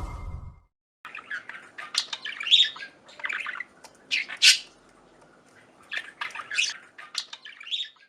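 Small cage birds chirping and squawking in quick, irregular calls, the loudest about four and a half seconds in. The tail of intro music fades out at the very start.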